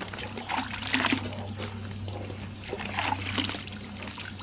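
Water splashing and trickling as a puppy is washed, with louder splashes about a second in and again around three seconds.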